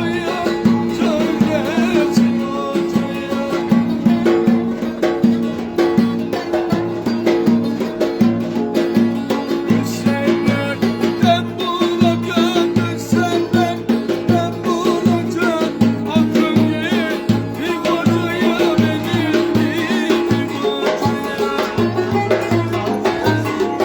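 Turkish folk dance music (oyun havası) played live: a steady, driving drum beat under an ornamented, wavering melody.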